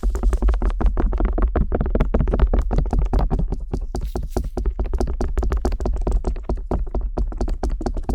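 Stainless steel ear pick rapidly scraping and tapping on the silicone ear of a binaural microphone, many short strokes a second, over a deep rumble.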